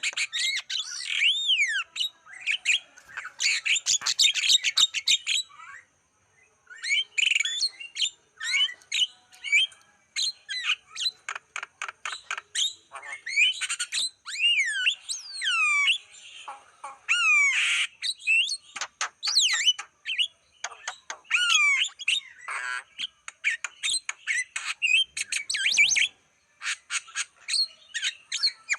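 Javan myna singing a fast, varied stream of whistled glides, chirps and harsh, squawky notes, with a couple of brief pauses.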